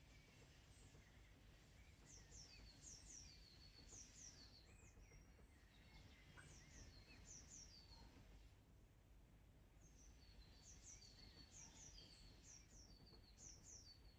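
Faint birdsong: a small bird repeating short, high chirps that slide downward, in clusters of two or three every second or so, with a short break past the middle. Underneath is a low, steady outdoor background hum.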